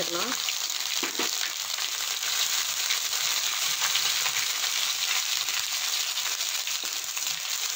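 Chopped garlic, ginger and green chillies sizzling steadily in hot oil in a wok, stirred with a wooden spatula that now and then scrapes the pan.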